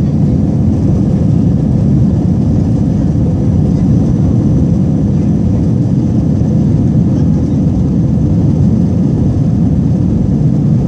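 Steady roar of an airliner's jet engines and airflow heard inside the passenger cabin, with a faint steady whine over it.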